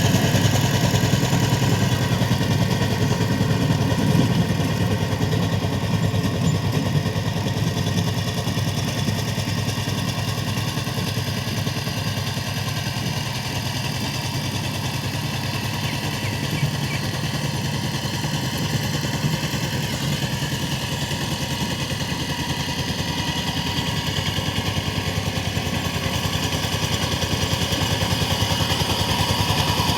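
Power tiller engine running steadily with an even, rapid knock of firing strokes. It is a little quieter through the middle and picks up again near the end.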